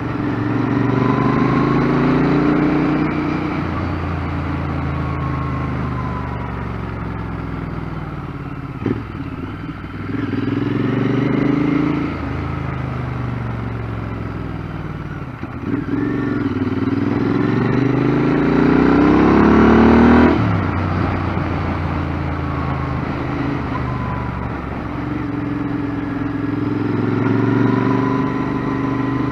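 Royal Enfield Interceptor 650's parallel-twin engine under way, heard through a helmet with the microphone inside, its revs rising and dropping back several times. A long pull in the middle climbs steadily and cuts off abruptly about two-thirds of the way through.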